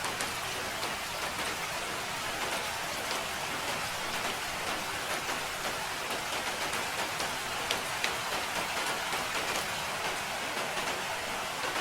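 Steady rain falling, an even hiss with many small drop taps.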